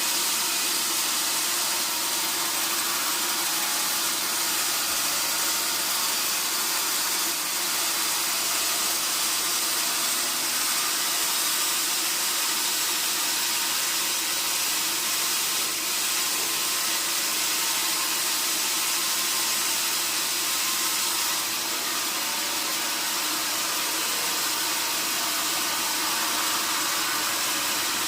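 Sawmill machinery running steadily: an even, loud hiss over a faint low hum.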